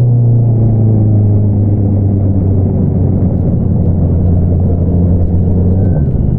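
2022 Honda CBR650R's inline-four engine through an Akrapovič single-outlet exhaust, its note slowly falling as the revs drop, with a change in the note near the end.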